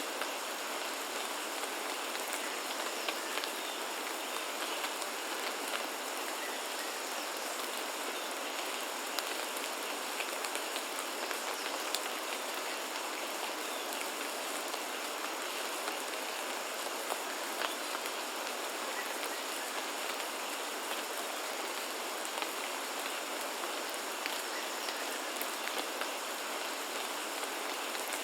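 Steady rain falling on foliage and surfaces, a continuous even hiss scattered with the light ticks of individual drops.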